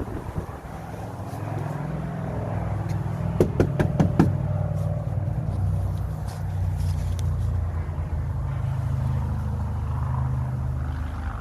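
Loud knocking on a front door: a quick run of about six raps, over a steady low rumble.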